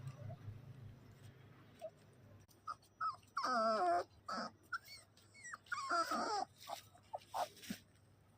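Puppy whining: two high-pitched, wavering whimpers, one about three seconds in and a shorter one about six seconds in.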